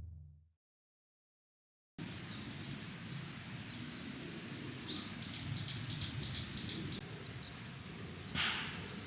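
Outdoor woodland ambience with a bird singing a quick run of about six high repeated chirps in the middle, and a short sharp sound near the end. It opens with the last of a fading tone, then a brief stretch of complete silence.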